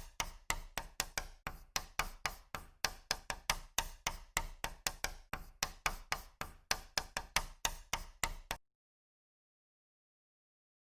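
A rapid series of sharp clicks or knocks, about four a second, that stops suddenly, followed by dead silence.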